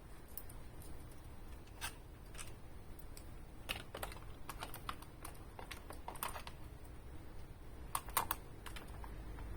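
Irregular light clicks and taps of small hard parts and tools being handled, bunched into a few clusters with the sharpest pair of knocks about eight seconds in.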